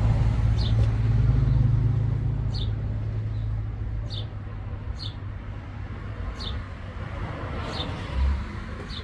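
A small bird chirping repeatedly, short high falling chirps about once a second, over a low rumble that fades away over the first few seconds.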